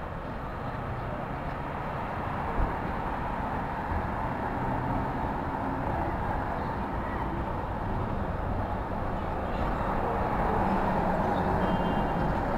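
New York City street ambience: a steady wash of traffic noise with indistinct voices, slowly growing louder, and a brief thump about two and a half seconds in.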